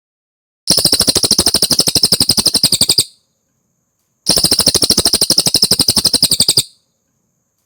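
Cililin bird calling: two fast, rattling trills of about two and a half seconds each, about a dozen notes a second, with a pause of about a second between them.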